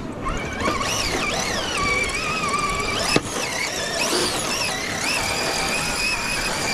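Small electric motor and drivetrain of a scale RC crawler truck whining, the pitch rising and falling as the throttle is eased on and off. There is a single sharp click a little past halfway.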